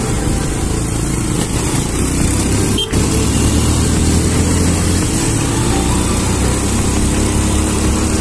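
Motorcycle engine running steadily while riding, under a continuous noisy rush, with a brief drop about three seconds in.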